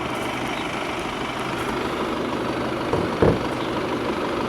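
Volkswagen Passat B8's 2.0 TDI four-cylinder diesel engine idling steadily, with one short low thump about three seconds in.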